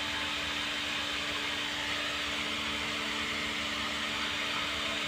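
Steady background machine whir: an even hiss with a low hum running unchanged.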